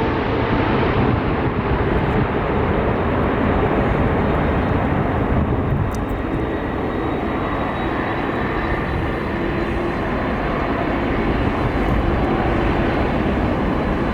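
Airliner engines running, a loud steady rumble with faint whining tones; the high hiss dulls over the first few seconds.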